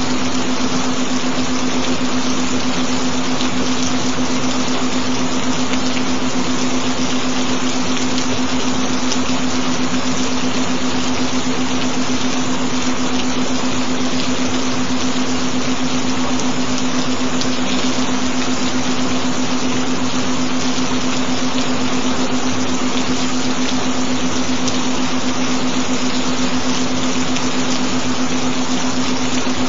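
Steady recorded rain, a constant even hiss, with a single steady low tone underneath.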